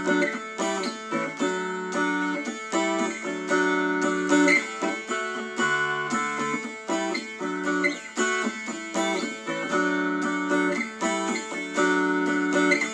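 Mountain dulcimer strummed, playing a tune in a steady rhythm over a sustained drone, on a freshly fitted set of new strings.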